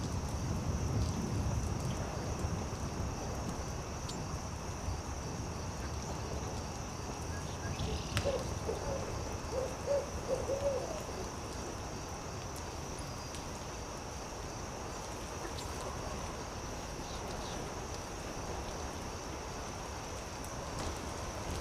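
Owl hooting: a quick run of about six short low hoots, starting about eight seconds in. Underneath is a steady high-pitched drone, like insects, and a low rumbling haze.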